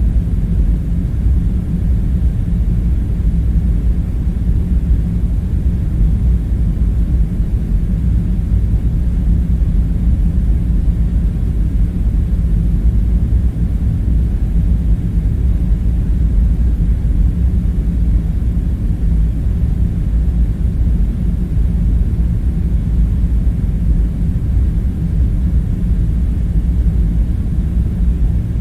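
Steady deep rumbling hum with several low hum tones in it and no separate sounds over it: a continuous machinery-like background drone.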